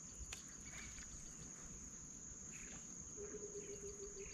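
Faint insect chorus, crickets or similar: a steady high-pitched trill with rows of quick, evenly spaced chirps.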